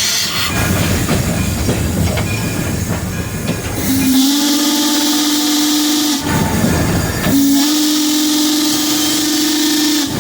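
Frisco 1630, a 2-8-0 steam locomotive, heard from its cab: the rumble and clatter of the engine under way, then two long blasts of its steam whistle, each a single steady tone with a hiss of steam.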